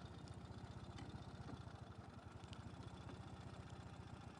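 Ural sidecar motorcycle's flat-twin engine idling, heard faintly as a steady, fast, even pulsing.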